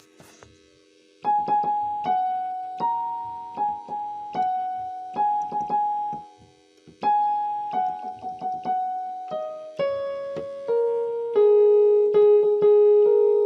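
Background music: a gentle piano or electric-piano melody of single struck notes that each fade out, starting about a second in, with a brief pause midway.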